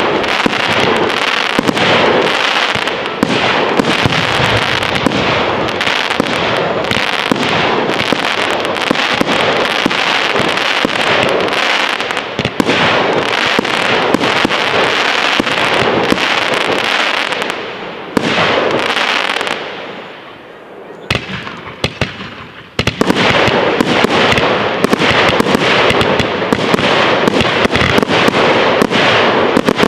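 Fireworks display barrage: a dense, continuous run of bangs and crackling shells. It thins into a brief lull about two-thirds of the way through, then comes back loud and dense all at once.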